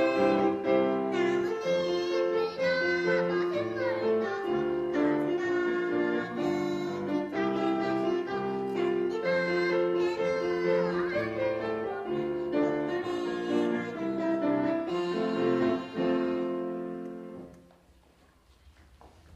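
A young child singing a Korean children's song with piano accompaniment; the song ends with a held final note that dies away about 17 seconds in.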